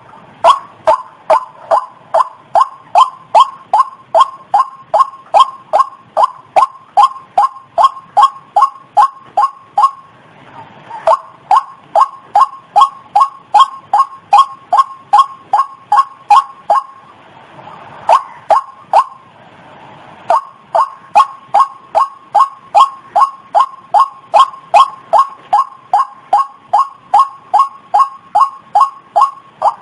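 White-breasted waterhen (ruak-ruak) calling: a short, sharp note repeated about twice a second in long monotonous runs, broken by a brief pause about ten seconds in and a longer one a few seconds later.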